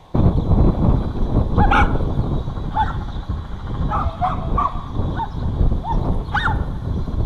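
A dog giving short, high yips and barks, one or two a second, over a loud steady low rumble.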